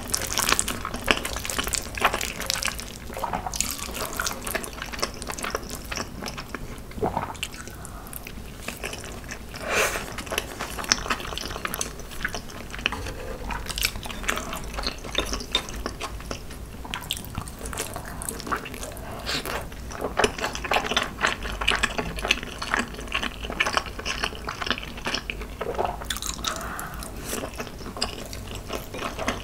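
Close-miked wet chewing and mouth sounds of someone eating spicy marinated boneless crab, made up of many short irregular smacks and squelches, with occasional clicks of a spoon and chopsticks on the dishes.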